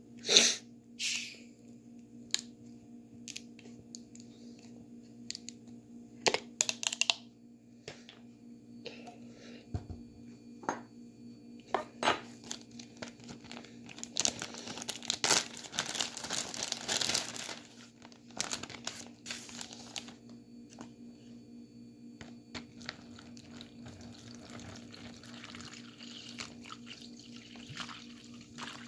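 Plastic bag crinkling as it is handled, with scattered sharp crackles and a denser stretch of rustling about halfway through that lasts a few seconds, over a steady low hum.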